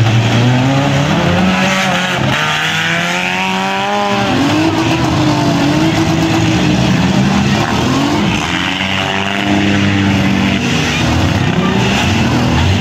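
Engines of several compact demolition derby cars revving hard during a heat. Their pitch rises and falls again and again as the drivers accelerate.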